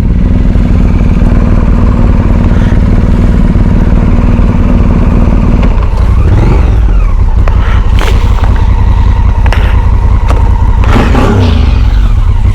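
Motorcycle engine idling with a fast, steady low pulse, with a few short knocks and clatters in the second half.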